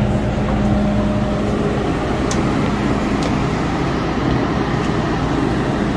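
MTR M-Train electric multiple unit running, a steady rumble of wheels on track with a low hum that fades about two seconds in.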